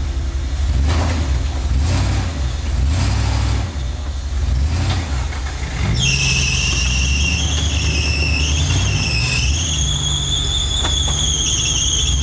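Off-road Jeep engine running with a low steady rumble under load; about halfway through a loud, high-pitched squeal with a wavering pitch starts and keeps going.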